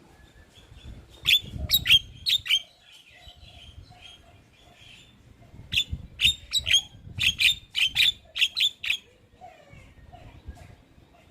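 Javan myna (jalak kebo) calling: a quick cluster of sharp, harsh notes about a second in, then a longer run of them from about six to nine seconds in, with softer chatter between.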